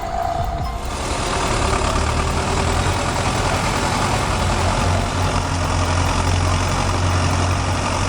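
Heavy tractor diesel engine running hard, a steady deep drone with a dense noisy layer over it that comes in about a second in.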